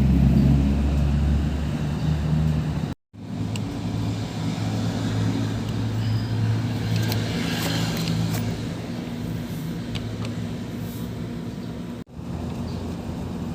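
Small two-stroke brush cutter engine running steadily, broken twice by abrupt brief silences.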